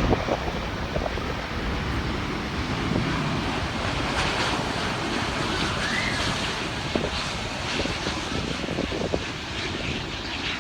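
Jet airliner's engine noise as it lands, a steady roar that eases off slightly early on. Wind buffets the microphone throughout.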